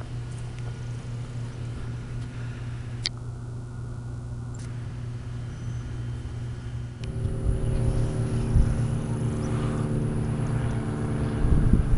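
Steady low engine hum of an approaching train, which grows louder with added tones and rumble about seven seconds in and turns to a heavy low rumble near the end.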